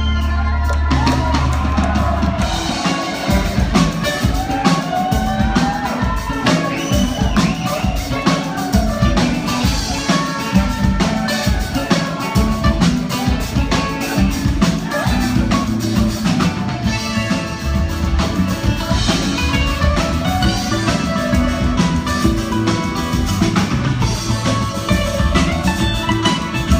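A live band playing loudly: a drum kit keeps a fast, steady beat under a bending instrumental lead, with a bass note held for the first two seconds.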